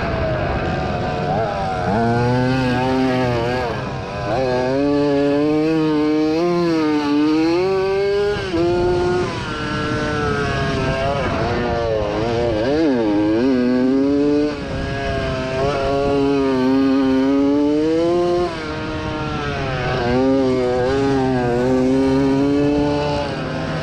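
1987 Yamaha YZ80 two-stroke motocross engine revving under racing load, its pitch constantly climbing and falling as the throttle is worked. The loudness dips briefly several times.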